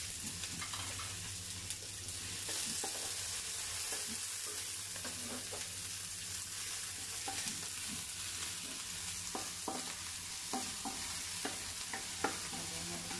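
Chopped garlic and white onion sizzling in oil in a hot wok, stirred with a wooden spatula that scrapes and taps against the pan, the taps coming more often in the second half.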